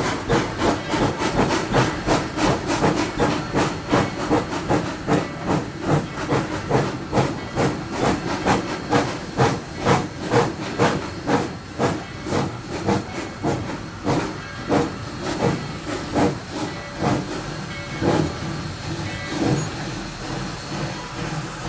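Narrow-gauge steam locomotive working a train, heard from the cab: exhaust chuffs at about two beats a second over steam hiss. The beats soften about two-thirds of the way through, leaving mostly hiss.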